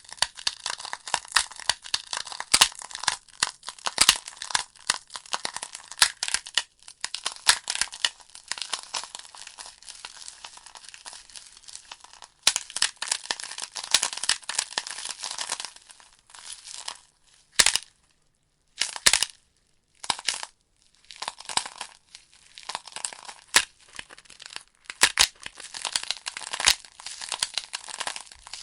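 Wood logs burning in a fireplace, crackling and popping with many sharp snaps over a soft hiss. The crackle thins to a few isolated pops for several seconds past the middle, then picks up again.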